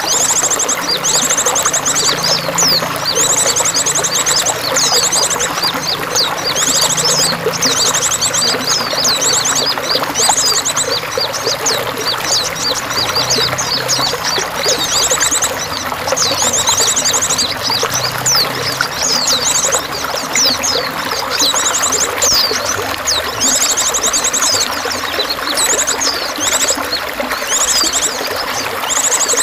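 Steady running, splashing water with small birds chirping over it. Fast, high trills about a second long repeat every few seconds among many short chirps.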